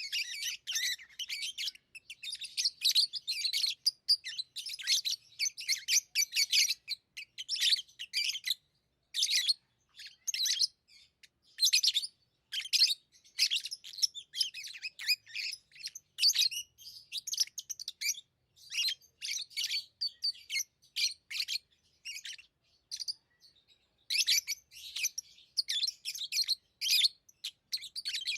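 Pet lovebirds chirping in rapid runs of short, high-pitched notes, broken by brief pauses.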